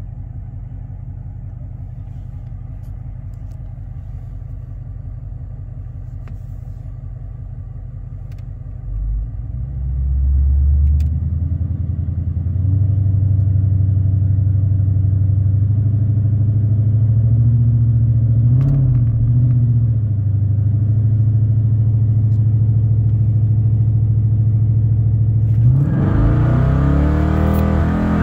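Dodge Challenger R/T's V8 idling, then revved up about nine seconds in and held at a steady raised rpm for some thirteen seconds, the launch control pinning the revs at its set launch rpm of about 1500. Near the end the car launches and the engine note climbs hard under full acceleration.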